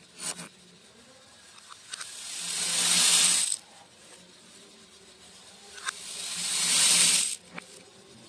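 Beads poured in a stream: a rattling hiss that builds for a second or so and cuts off suddenly, twice, with a few single beads clicking down in between.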